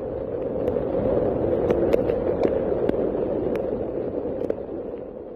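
Steady rushing noise of heavy rain and floodwater, with scattered sharp crackles on top; it fades near the end.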